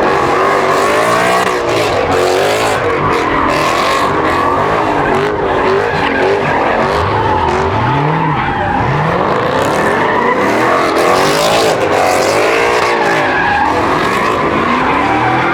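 A car engine revving hard and tires squealing continuously as a car drifts or spins donuts, the engine pitch rising and falling again and again.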